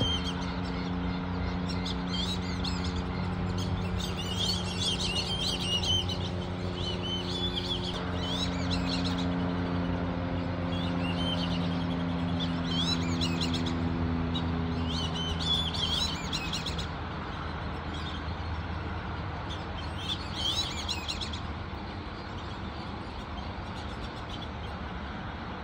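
Birds chirping in short clusters of quick high notes, over a steady low hum that fades out about two thirds of the way through.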